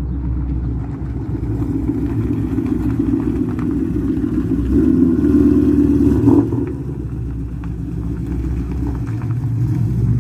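A car engine running through its exhaust, swelling in level to a peak about six seconds in and then dropping back quickly, as if revved and released.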